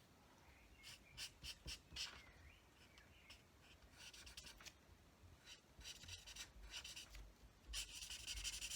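Faint scratching of a colouring marker's tip stroking across cardstock while colouring in a stamped image: a few short strokes, then a longer run of strokes near the end.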